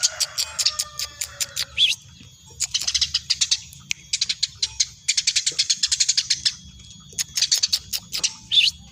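Eurasian tree sparrow chirping rapidly in runs of quick chirps, about five bursts with short pauses between, and a sharp sliding note near the end.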